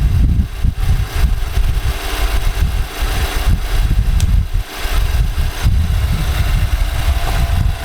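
2018 Nissan Armada's 5.6-litre V8 idling, with an uneven low knocking that the owner questions as possibly normal.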